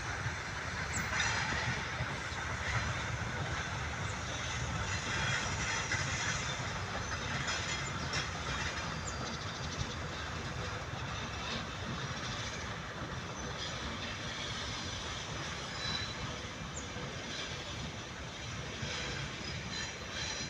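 Work train hauled by a ChME3 diesel shunting locomotive rolling past: a steady rumble of wheels on rail with faint wheel squeal and occasional light clicks at the rail joints, easing off a little towards the end.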